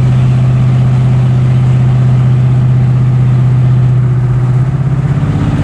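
Ford 302 Windsor 5.0 V8 with ported GT-40P heads and a custom camshaft idling through uncapped open exhaust, with a loud, steady, pulsing beat. The beat dips and turns uneven about four and a half seconds in.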